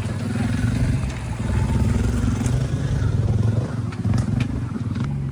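Vehicle engine running steadily at low revs, with a few scattered clicks and rattles.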